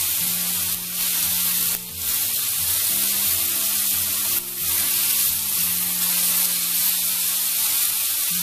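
Halved tomatoes frying in hot oil in a pan with cumin seeds, a steady sizzle that dips briefly a few times as they are turned.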